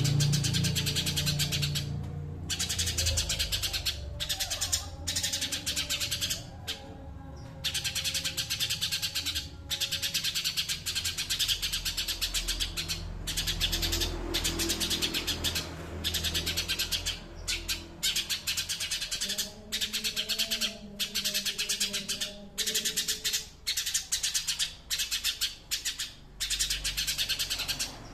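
Songbird giving a fast, high, ticking chatter in long runs broken by brief pauses.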